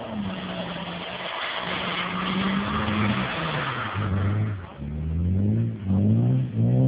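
Audi Coupe 2.8 quattro's V6 engine held at steady revs under tyre noise as the car slides. From about four and a half seconds it is revved up and down in quick repeated blips, getting louder.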